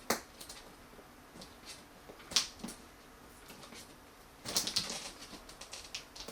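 Adhesive sealing stickers being peeled off a cardboard monitor box. Scattered sharp clicks and taps give way about four and a half seconds in to a quick run of crackling as a sticker tears away from the cardboard.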